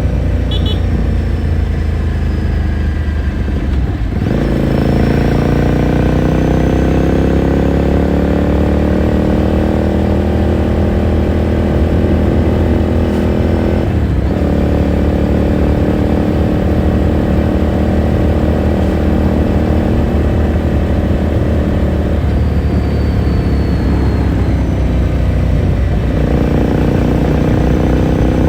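2018 Ducati Scrambler Sixty2's 399 cc L-twin heard onboard through its exhaust, pulling up through the gears. The engine note rises steadily and drops briefly at each upshift, about four times.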